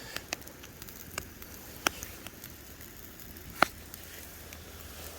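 Campfire crackling, with scattered sharp pops from the burning wood; the two loudest pops come about two seconds and three and a half seconds in.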